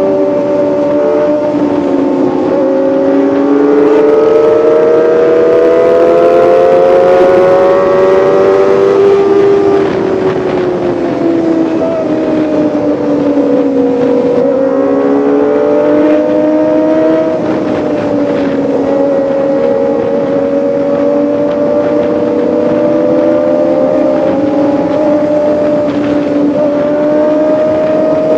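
Kawasaki ZX-25R's 250 cc inline-four engine running at high revs. Its pitch climbs slowly for several seconds, drops about ten seconds in, then rises and falls gently.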